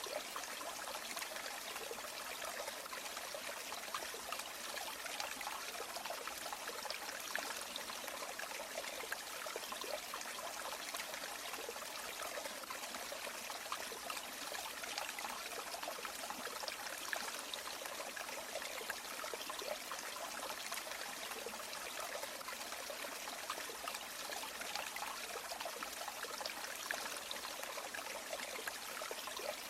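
River water flowing: a steady rush with many small trickles and splashes, light in the bass.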